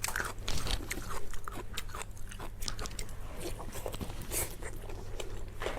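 A person chewing and biting food close to the microphone: irregular wet smacks and clicks of the mouth, with no rhythm.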